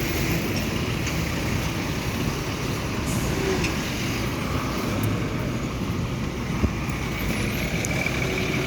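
Steady rumble of heavy vehicle engines and roadway traffic noise, with no sharp events.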